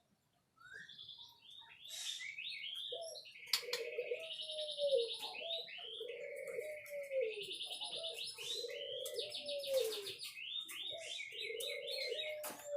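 White-rumped shama singing a fast, varied song of whistles and trills. From about three seconds in, a low cooing call repeats about every two seconds beneath it.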